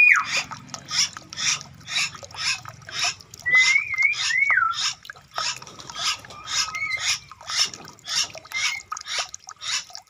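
Rice-field ambience: a bird whistling a few rising and falling notes, with a regular rustling about twice a second underneath.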